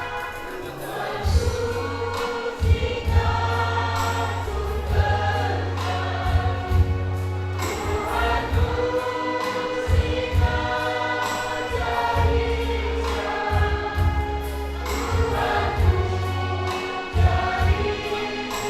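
Group of voices singing a song with instrumental accompaniment, held bass notes changing every second or two under the melody.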